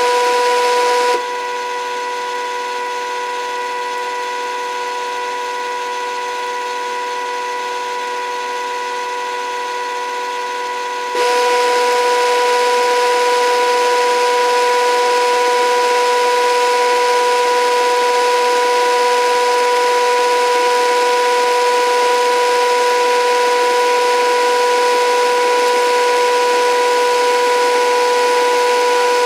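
Toy washing machine driven by a HUSTOO 775 DC motor under PWM speed control, running with a steady high whine. It steps down to a quieter setting about a second in and jumps back to full level about eleven seconds in.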